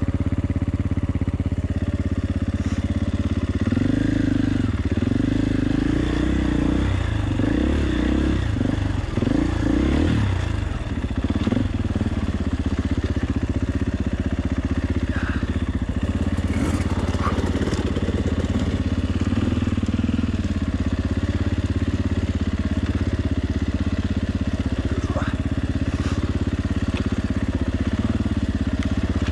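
2020 KTM 450 EXC single-cylinder four-stroke enduro engine running under a rider on single track. Between about four and eleven seconds in, the revs rise and fall again and again; after that it runs at fairly steady low revs, with a few light clicks.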